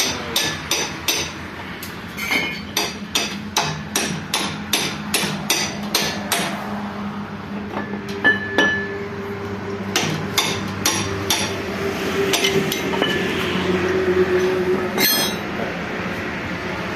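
Hammer blows on the metal parts of a tractor gearbox: sharp strikes about two a second for the first seven seconds, then a few scattered strikes.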